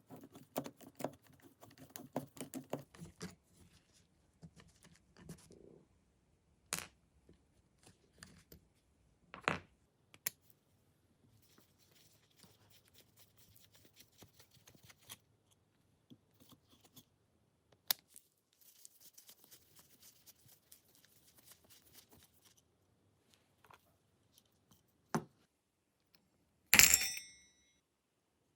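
Small metal parts and hand tools being handled at a bench during the revolver's teardown and cleaning: scattered clicks and knocks, a stretch of light scraping, and one loud sharp clack near the end.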